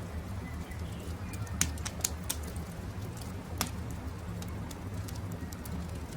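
Wood fire crackling, with irregular sharp pops, the loudest a few seconds in, over a low steady rumble.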